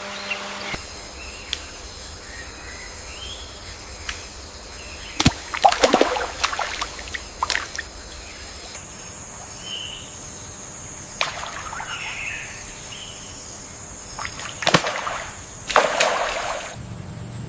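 Shallow water splashing and sloshing in two bouts, about five seconds in and again near the end, with faint short bird chirps and a steady high thin tone underneath.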